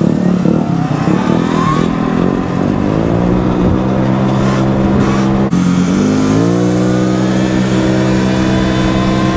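Gas-powered scooter engines accelerating, their pitch climbing over several seconds and then holding at a steady high note, with low wind rumble on the microphone.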